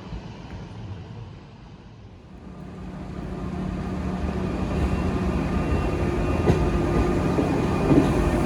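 DSB IR4 (Litra ER) electric multiple unit running on the rails, growing steadily louder from about three seconds in, with a steady motor whine over the rumble and a couple of short clicks near the end.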